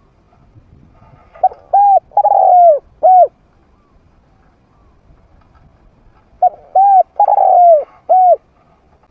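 Spotted dove cooing, a trained decoy bird's medium-pitched call: two phrases a few seconds apart, each of two short coos, a longer falling coo and a final short coo.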